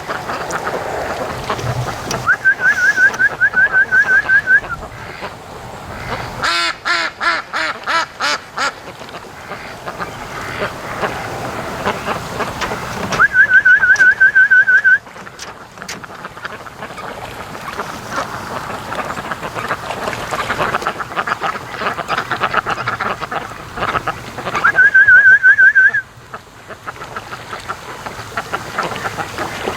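A flock of domestic ducks calling from the water: a run of about eight loud quacks around six to nine seconds in, then steady quacking chatter. Three times a loud, rapid, high warbling trill cuts in for one to two seconds, near the start, in the middle and near the end.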